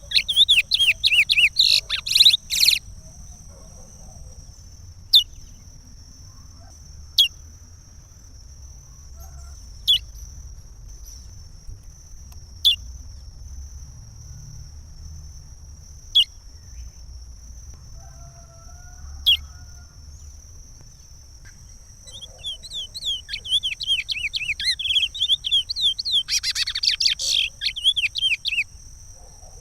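Curió (chestnut-bellied seed finch) singing the Pará regional song: a fast run of whistled notes at the start, then single sharp notes every two to three seconds, and a long song phrase again from about two-thirds through until near the end. A steady high-pitched tone runs underneath.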